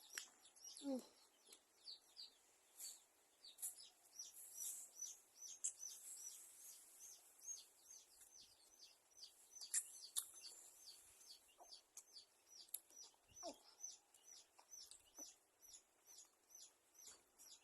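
Faint, high bird chirps repeating rapidly, a few a second, over near silence, with a few soft clicks.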